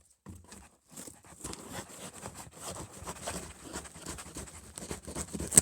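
A cardboard parcel being opened by hand: irregular rustling, scraping and tapping of cardboard and packaging, with one sharp knock near the end.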